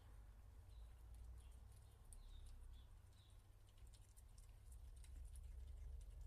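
Very faint high squeaks from young kittens, about five in the first three seconds. Small scattered clicks and a steady low hum lie under them.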